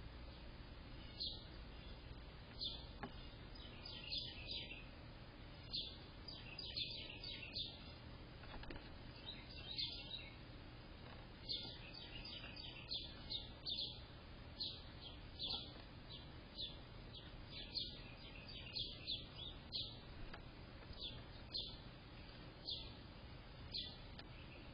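Small bird chirping: short high chirps, alone or in quick runs of two to four, repeated every second or two over a steady background hiss.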